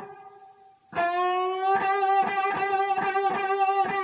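Electric guitar: a held note fades out, then about a second in a string is picked and slowly bent upward. The bent note is held with heavy vibrato.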